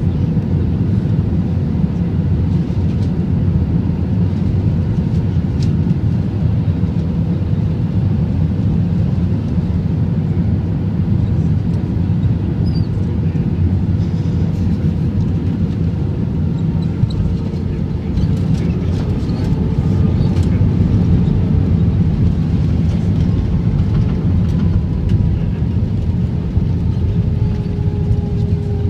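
Airbus A321-231 cabin noise heard from a rear window seat during the landing: a loud, steady roar of the IAE V2500 engines and airflow. In the second half an engine tone slowly falls in pitch.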